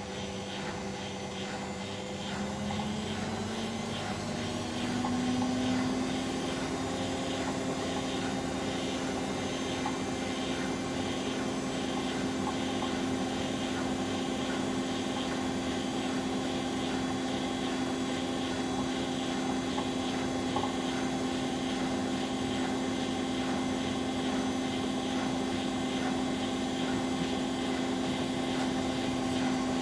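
Bosch Maxx WFL 248Y washing machine's motor whining as the drum speeds up over the first few seconds, then running on at a steady high speed, as in a spin cycle.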